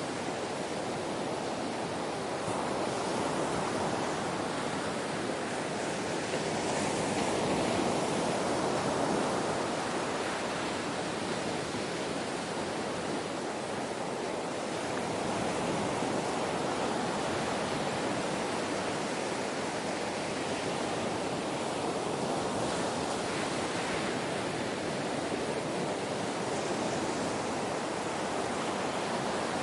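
Ocean waves washing on a shore: a steady hiss of surf that slowly swells and eases, loudest about a quarter of the way in.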